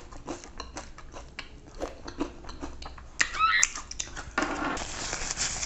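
Close-miked chewing of a mouthful of honey chilli potato: soft wet mouth clicks and light crunches. A short louder sound comes about three seconds in, then a rustling noise for about a second near the end.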